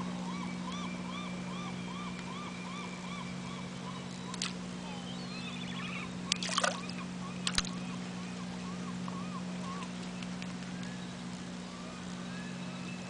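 A bird calling in a long series of short rising-and-falling notes, about three a second, over a steady low hum. A few sharp clicks or knocks come in the middle.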